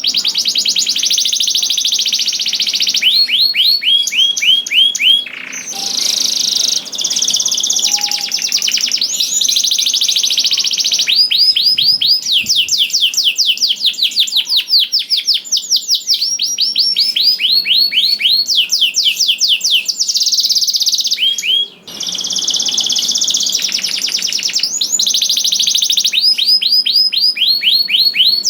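Male canary singing continuously in rapid trills of quickly repeated notes, switching from one trill to another every second or two, with short breaks about five seconds and twenty-two seconds in.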